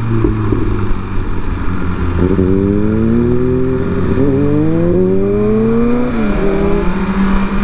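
Inline-four sport bike engine revving up, its pitch climbing from about two seconds in with a brief dip midway. The revs drop about six seconds in and settle to a steady note, with rushing wind noise throughout.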